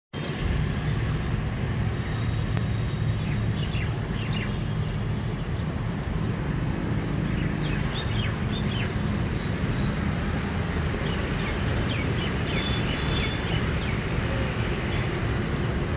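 Birds chirping in short, downward-sweeping calls that come in clusters a few seconds apart, over a continuous low engine rumble.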